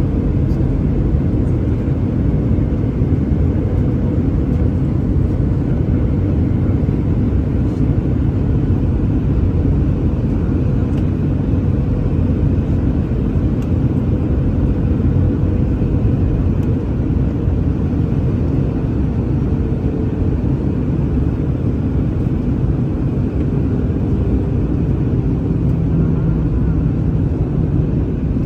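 Airbus A319 cabin noise in flight: a steady, loud rumble of engines and airflow, with a faint steady hum.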